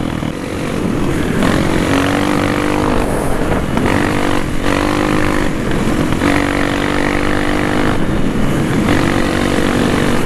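Honda CRF230F dirt bike's single-cylinder four-stroke engine running on a trail ride, its pitch rising and falling as the throttle is opened and eased, with a brief drop about four seconds in.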